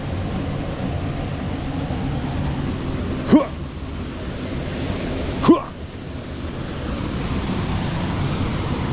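Steady rushing of a waterfall close by. Two short sounds that rise in pitch, like yelps, cut through it about three and a half seconds in and again about two seconds later.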